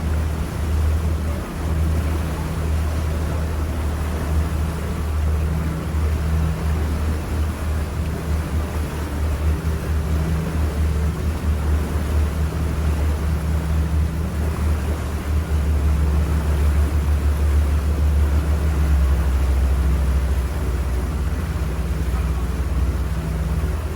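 Boat engine running steadily with a low hum, over a continuous rush of wind and water noise.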